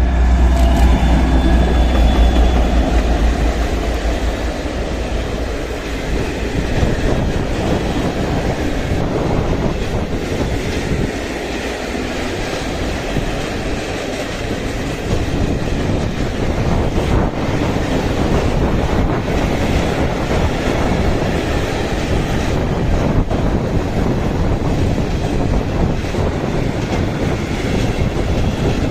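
A train passing close by: a locomotive's low hum in the first few seconds, then a steady rumble and clatter of wheels on the rails as the long line of wagons rolls past.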